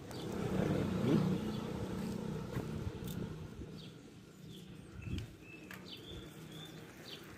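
Small birds chirping in short high calls. Under them, a low pitched rumble swells over the first second or two and fades by about three seconds in, with a few light clicks.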